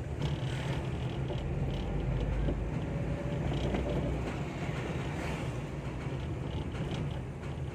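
Vehicle on the move: steady engine and road rumble, without breaks.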